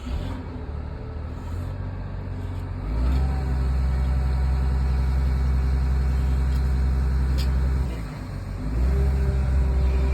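Vehicle engine running just after starting, a steady low hum that picks up and gets louder about three seconds in, drops away briefly around eight seconds and comes back up as it moves off.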